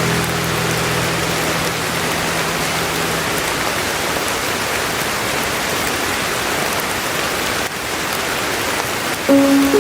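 Steady rain falling, an even hiss. The last held low notes of a melody fade out in the first few seconds, and new melody notes begin just before the end.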